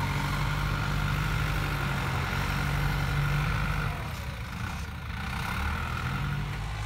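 Farm tractor's diesel engine running steadily with a high whine over it. The sound drops off about four seconds in and picks back up a second or so later.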